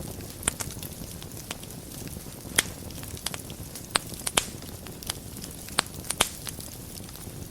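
Wood fire burning in a fireplace: a steady low rumble of flames with irregular sharp crackles and pops scattered through it, a few of them loud.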